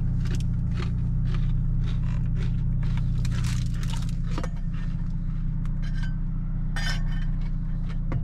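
Car cabin drone from the engine and road, steady and low, with its note changing about halfway through. Over it come small rustles and clicks of things being handled.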